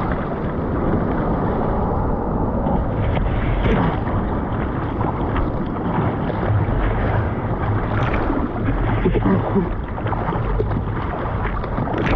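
Ocean surf and churning water with wind buffeting the microphone: a steady rush with a heavy low rumble.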